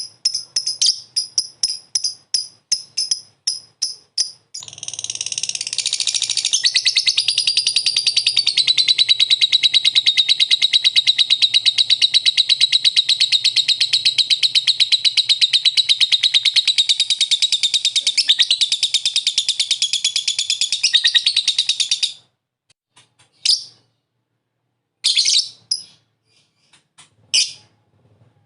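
Lovebird ngekek: quick high chirps about four a second, then about four seconds in one long unbroken rapid chatter that runs some seventeen seconds and cuts off suddenly, followed by a few scattered chirps.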